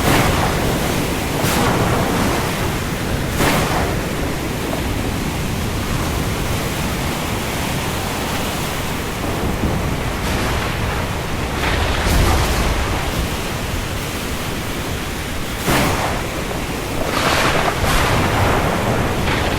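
Steady heavy rain falling on the open sea, with waves surging and washing every few seconds.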